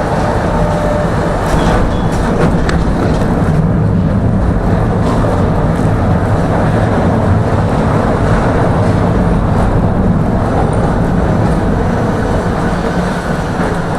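Tram running along its track, heard from inside the car: a loud, steady rumble of wheels on rails, with a few faint clicks a couple of seconds in.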